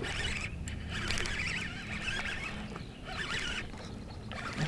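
A bass hooked on a buzzbait splashing and thrashing at the water's surface as it is reeled in, an irregular chattering splash over a steady low hum.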